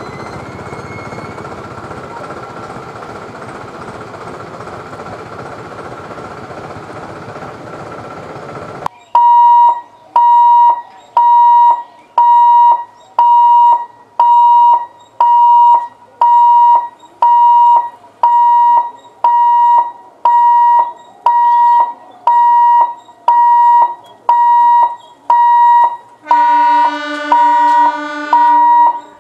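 Electric EMU local train running along the track with a steady rumble of wheels on rails. About nine seconds in it gives way to a loud electronic warning beep repeating about once a second, typical of a railway level-crossing gate alarm, and near the end an EMU's horn sounds for about two seconds over the beeping.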